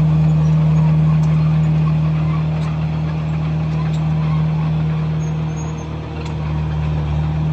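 Komatsu bulldozer's diesel engine running steadily, a deep drone that eases off briefly about six seconds in.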